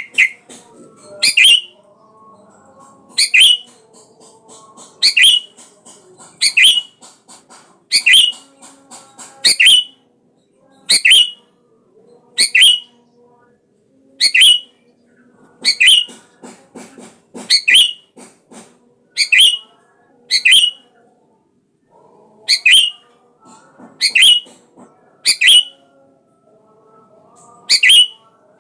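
Sooty-headed bulbul calling over and over: a short, sharp, loud call about every one and a half seconds, sometimes two close together, with fainter chattering in between.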